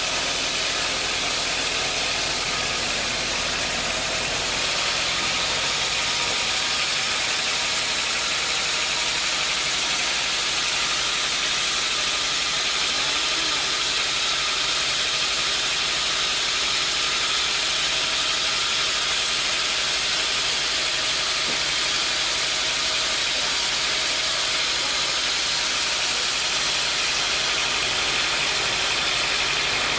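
Sawmill machinery running steadily, a continuous hissing noise that holds at an even level with no breaks or strokes.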